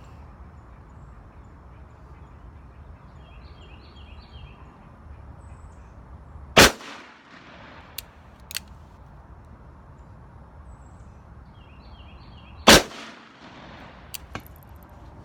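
Two shots from a Smith & Wesson 686 Plus .357 Magnum revolver fired single action, about six seconds apart, each a sharp loud crack with a short echo. A few much fainter clicks fall between and after the shots.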